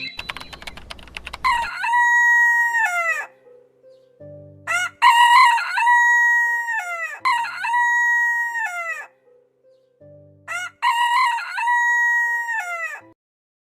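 Rooster crowing four times, each crow a long held call that drops in pitch at the end, with short low clucks between the crows.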